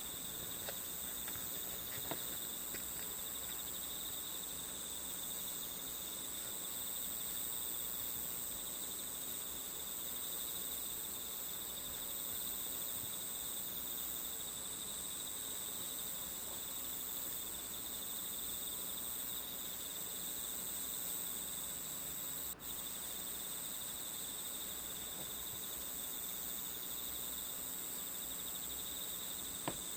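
Steady chorus of crickets chirring, from a nature-sound ambience track, with a few faint clicks and a brief dropout about two-thirds of the way through.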